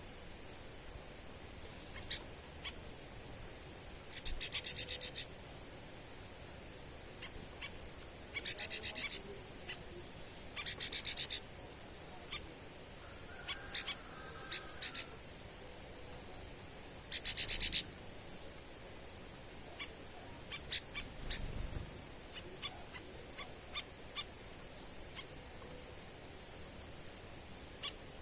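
Small birds calling: short, high chirps come and go throughout, with several rapid trills of about a second each.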